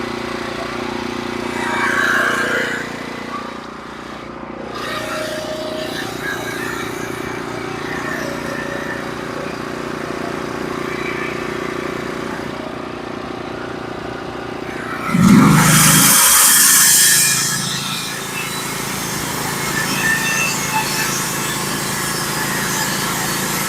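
Engine of a Norwood HD36v2 portable sawmill running steadily. About fifteen seconds in, a loud burst of noise lasts a couple of seconds.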